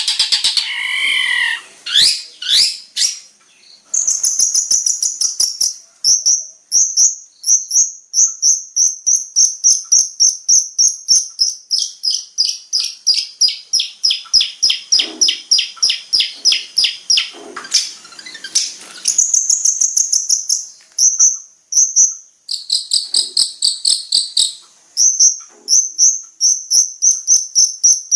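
Long-tailed shrike (cendet) song from a training recording: a fast series of short, high, repeated chirps, about three a second, broken by a wavering whistle at the start and a stretch of harsher chattering notes in the middle, the kind of mimicry-laden 'fill-in' song used to teach caged cendets.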